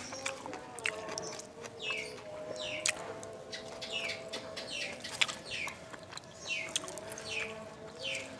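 A bird calling over and over with short downward-sweeping chirps, about one a second, with sharp clicks of chewing in between.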